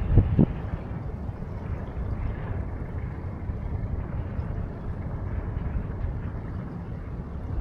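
Wind buffeting the microphone by the river, a steady low rumble with two stronger gusts in the first half second.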